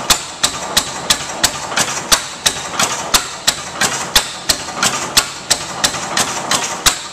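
6 1/2 HP Ruston Hornsby hit-and-miss gas engine running, with a regular sharp clatter about three times a second and a louder stroke every second or two as it fires and coasts.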